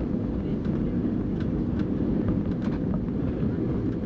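Steady low rumble of an Airbus A320's engines and airflow heard inside the passenger cabin during landing, with a few faint light rattles.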